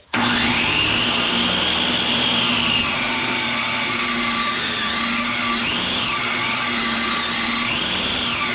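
Electric power tool running steadily on a high whine that sags and climbs back a few times, over a low steady hum.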